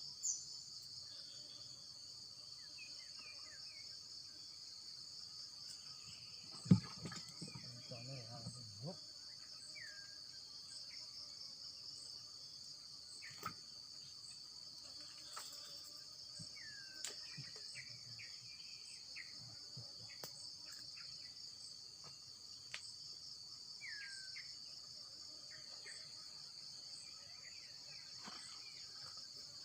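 Steady high insect chorus, a continuous fast-pulsing trill, with short falling bird chirps scattered through it. A single sharp knock comes about seven seconds in, followed by a couple of seconds of low rumbling handling noise.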